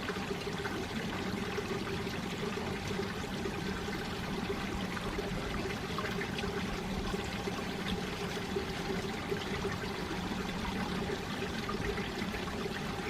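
Mountain valley stream running: a steady flow of trickling and gurgling water.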